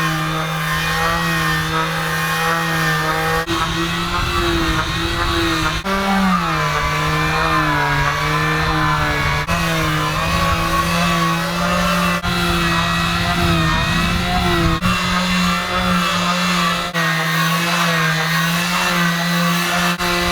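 Electric power sander running against a boat hull, a steady motor hum whose pitch wavers and dips as the pressure on it changes, with brief breaks every few seconds.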